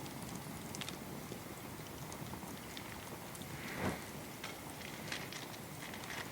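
Wood fire in a small camping fire pit crackling, scattered small pops over a steady low hiss, with one louder knock about four seconds in.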